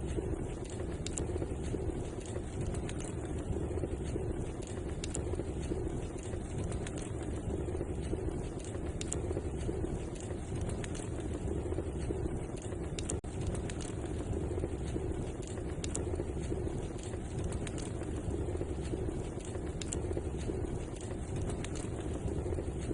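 Wood fire in a fireplace burning steadily: a continuous low rushing hiss with many small crackles and pops scattered through it.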